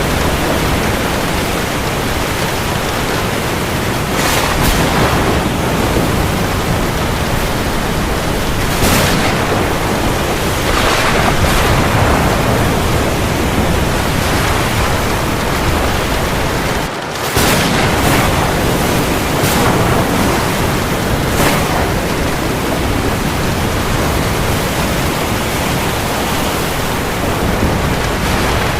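Heavy, steady rain making a dense hiss, with brief louder surges every few seconds. The sound dips out for a split second a little past the middle.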